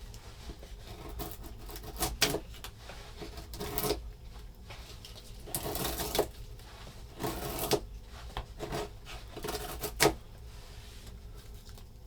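Irregular clicks, knocks and rustling, as of objects being handled, with a sharp knock about ten seconds in.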